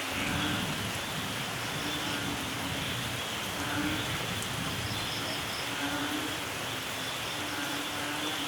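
Steady light rain falling, with a low rumble of distant thunder underneath and a few faint high bird chirps now and then.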